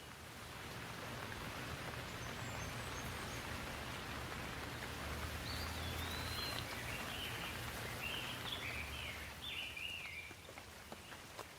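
Steady rain that swells about a second in and eases off near the end, with a bird chirping several short calls partway through and a few drips near the end.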